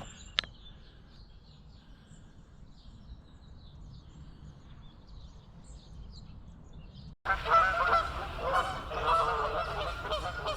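Faint small birds chirping over a low rumble, with one sharp click just after the start. About two-thirds of the way in the sound cuts abruptly to a flock of geese honking loudly and continuously.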